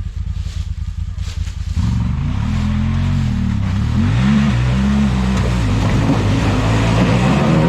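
Off-road buggy engine running low and steady, then about two seconds in revving hard, its pitch rising and falling again and again, with a growing rush of noise joining it about halfway through.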